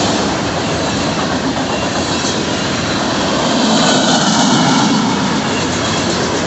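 Union Pacific freight train passing close by at speed, a steady loud din of steel wheels on rail.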